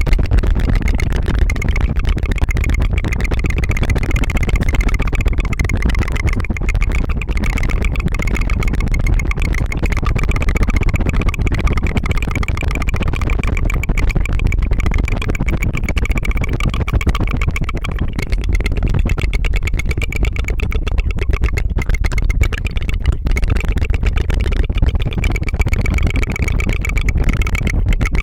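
Rapid, continuous tongue fluttering: a fast, steady rattling trill that sounds like a motor running.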